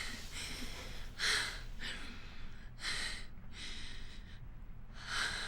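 A person breathing hard in ragged gasps, one breath every half second to a second, the deepest about a second in and again near the end.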